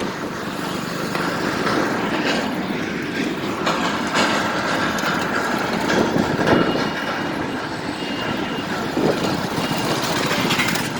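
Vehicle noise on a bridge: a steady rumbling hiss of traffic, with a few louder knocks about two, four and six and a half seconds in.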